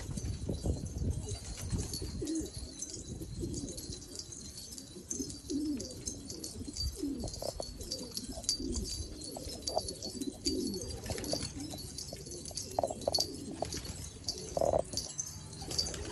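Homing pigeons cooing, with repeated low, rolling coos from several birds throughout and short high chirps above them.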